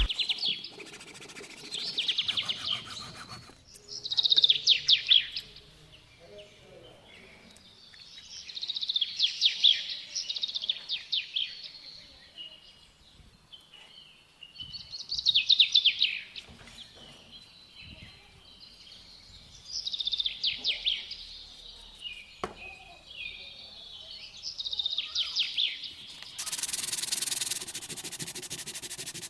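A songbird singing short, fast trilled phrases, one every few seconds. Near the end a steady rasp of rubbing, like sanding, begins.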